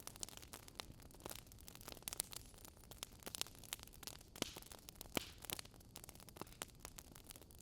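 Fire crackling: irregular sharp snaps and pops at uneven intervals over a soft hiss.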